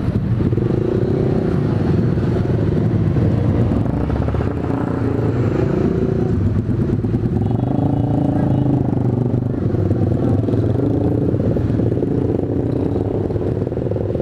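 Small motorcycle engines running in a slow-moving crowd of motorcycles, the nearest being a Honda Sonic 150R's single-cylinder engine. The engine note rises and falls briefly twice, about a second in and again about eight seconds in.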